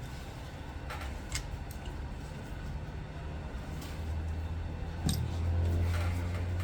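A few faint clicks of small metal parts and tools being handled, over a low steady hum.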